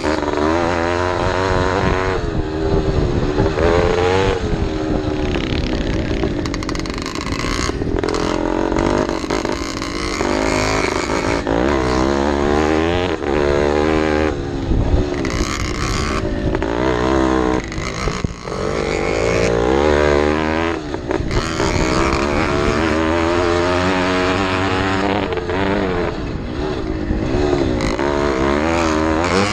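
Vintage motocross bike's engine heard from on board at race pace, its note climbing and dropping again and again as the throttle opens and shuts through the gears, with wind rushing over the microphone.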